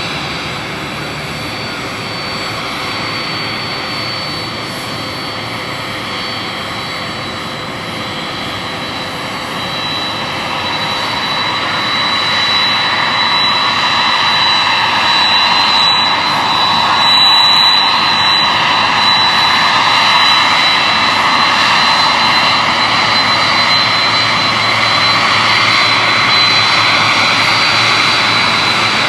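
Jet airliner's engines running: a broad rush with a high steady whine on top. It grows louder about ten seconds in and stays loud.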